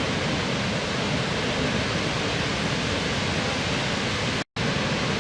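Waterfall: a steady, dense rush of falling water. It cuts out completely for a split second about four and a half seconds in.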